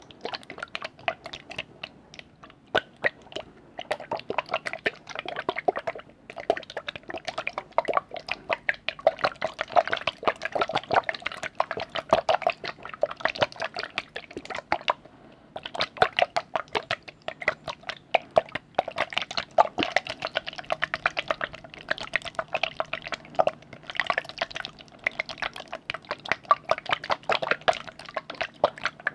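Liquid being worked in a container for ASMR: rapid wet drips and splashy clicks, with brief pauses about 6 and 15 seconds in.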